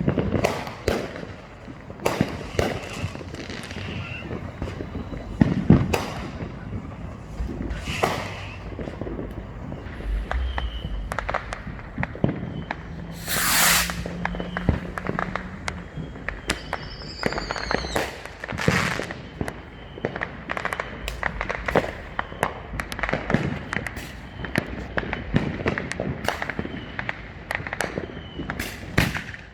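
Neighbourhood consumer fireworks going off all at once: a near-continuous barrage of bangs and firecracker pops, some louder and some fainter. A loud hissing burst comes just before halfway, and a brief whistling firework follows a few seconds later.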